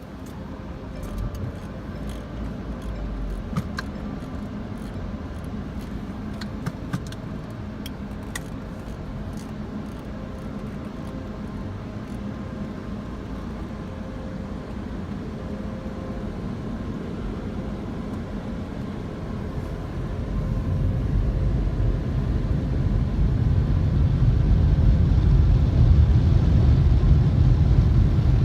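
Belanger Freestyler automatic car wash running, heard from inside the car's cabin. A steady, low noise with scattered clicks and ticks in the first third grows clearly louder about two-thirds of the way through.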